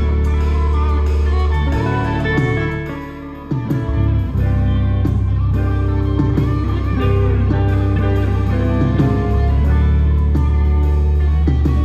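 Live band playing an instrumental passage: electric guitar lead over bass and drum kit. The music dips briefly about three seconds in, then comes back in full.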